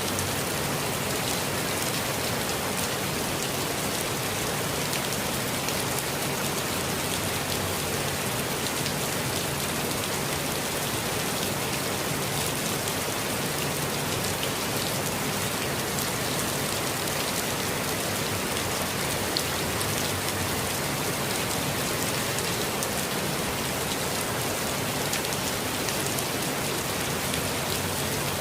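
Steady rainfall with scattered individual drops pattering on surfaces, an even unbroken hiss with no thunder.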